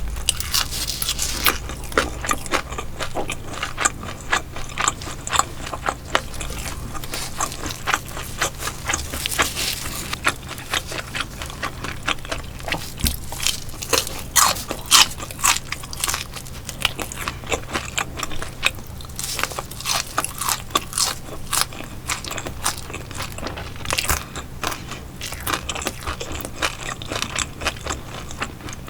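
Close-miked eating of crisp fried and grilled fish: crunchy bites and chewing, a dense, irregular run of sharp crackles.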